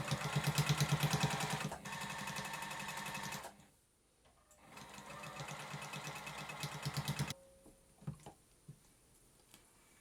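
JUKI SPUR 98 Special N sewing machine stitching at speed with a fast, even needle rhythm, in two runs: the first stops about three and a half seconds in, and after a short pause the second runs for under three seconds and stops abruptly. A few light clicks follow near the end.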